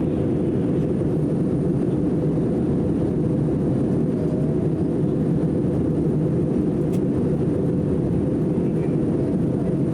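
Airliner cabin noise on the descent to land: the steady low rush of the jet engines and airflow heard from inside the cabin, unchanging throughout.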